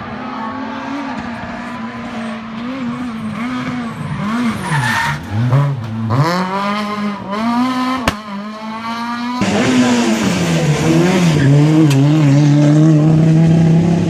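Small Fiat rally car's engine revving hard on a stage, its pitch rising and falling with gear changes and lifts. About nine seconds in it turns suddenly louder and holds a high steady note, then drops near the end.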